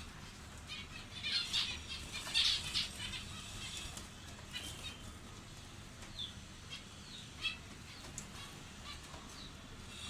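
Small cage birds calling and chirping in short bursts, a busy cluster of calls about one to three seconds in, then scattered single chirps, over a low steady hum.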